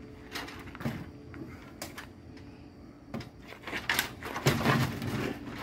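Scattered knocks and clunks of a stepladder being set in place and handled, busier and louder in the last second and a half.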